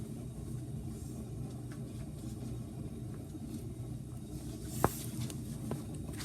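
Hand tools being handled during a wheel hub job: a few light clicks and one sharp click about five seconds in, over a steady low rumble.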